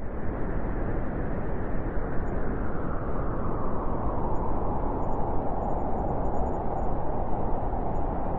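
Wind blowing hard, a continuous rushing noise that swells slightly in gusts.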